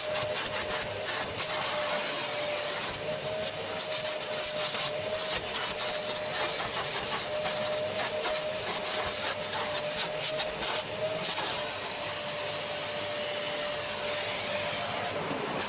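Vacuum cleaner running steadily: a constant whine over rushing air, with scattered small clicks and rattles.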